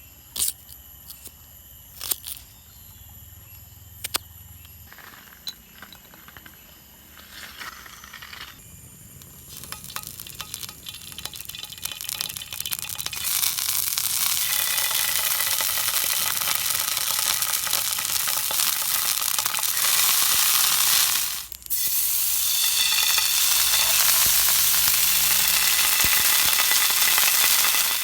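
Food frying in hot oil in a pan: a few sharp clicks and knocks at first, then a sizzle that builds and turns loud and steady about halfway through, with a brief dip.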